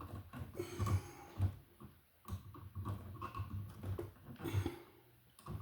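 Irregular soft taps, knocks and rustles of insulated electrical wires being handled and straightened by hand.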